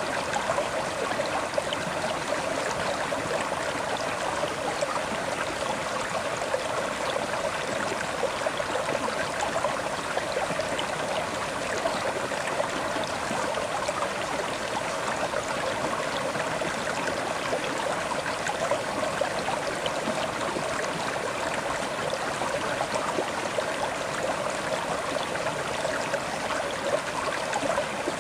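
River water flowing steadily over stones, a continuous rushing and babbling with no change throughout.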